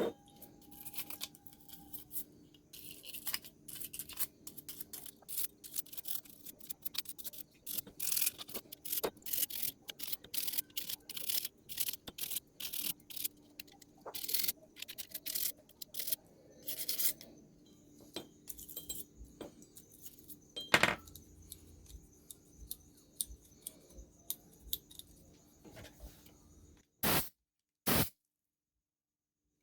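Small tools and electronic parts handled on a workbench while the speaker's scratchy volume potentiometer is worked on: irregular light clicks, taps and scrapes, with a faint steady hum underneath. Near the end two sharper knocks, then the sound cuts out.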